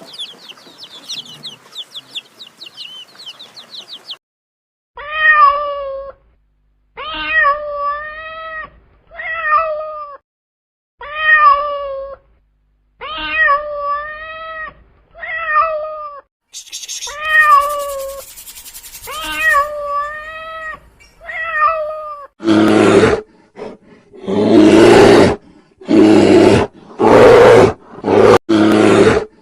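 A cat meowing over and over, about ten drawn-out meows a couple of seconds apart. It is preceded by a few seconds of rapid high chirping from small birds or chicks. About three quarters of the way through, loud rough roaring breaks in, a lion roaring in a run of bursts, and this is the loudest sound of all.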